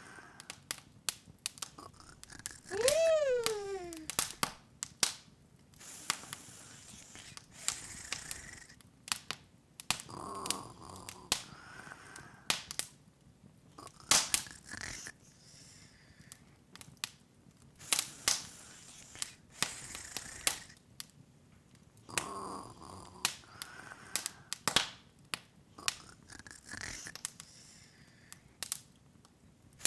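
Open wood fire crackling, with irregular sharp pops throughout and soft hissy swells of flame every several seconds. About three seconds in, a short voice-like sound rises briefly, then slides down in pitch.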